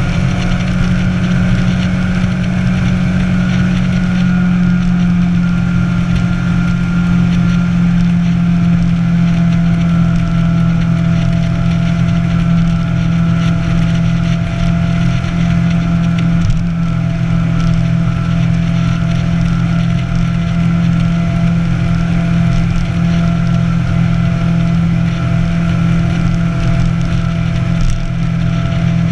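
Motorcycle engine running at a steady cruise, its pitch holding nearly constant throughout.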